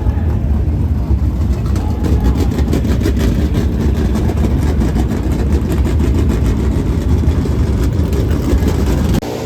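Dirt Late Model race car's V8 engine running loud and steady, with a rapid crackle, cutting off suddenly near the end.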